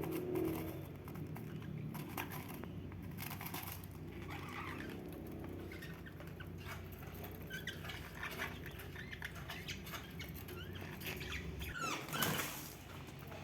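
Pet budgerigars chirping softly amid scratching and pattering, with a brief louder swooping chirp near the end.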